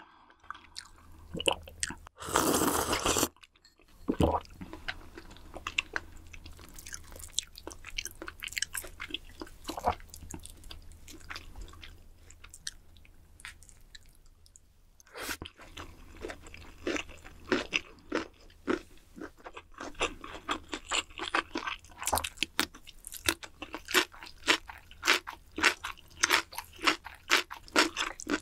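Close-miked eating: a loud sip from a soup cup about two seconds in, then sparse mouth sounds, and from about halfway a steady run of chewing with crisp, wet clicks several times a second as a bite of rabokki fish cake is chewed.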